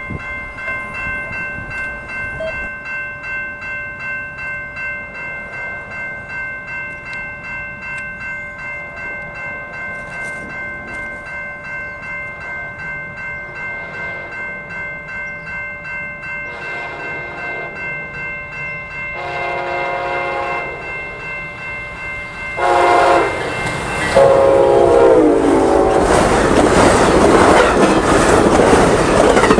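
A railroad crossing bell rings steadily. An approaching passenger train's horn sounds four blasts, each louder than the last as it nears. The train then passes close by at speed with loud wheel-on-rail noise.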